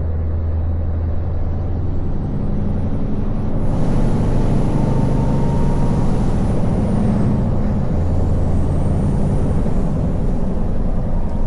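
Scania V8 diesel truck engine running, heard from inside the cab as a steady low drone. About four seconds in, a hiss and a faint high whine come in, the whine dipping in pitch and rising again.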